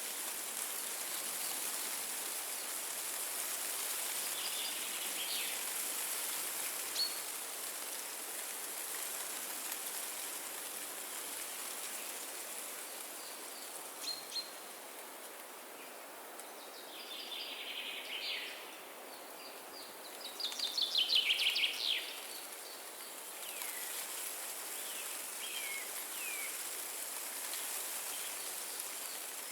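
Wind through forest trees as a steady rushing, with songbirds calling over it: scattered short calls, then two rapid trills about two-thirds of the way in that are the loudest sounds, and a few chirps near the end.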